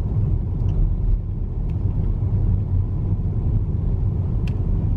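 Steady low rumble of a car driving along a road, heard from inside the cabin, with a few faint ticks.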